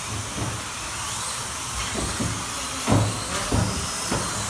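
Slot cars running on the track just after a race start: their small electric motors whine, rising and falling in pitch, over a steady hiss, with a few dull knocks.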